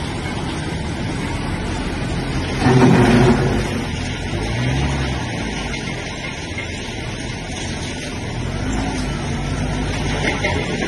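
VST Shakti 30 hp compact tractor's diesel engine running steadily, with a brief louder surge about three seconds in.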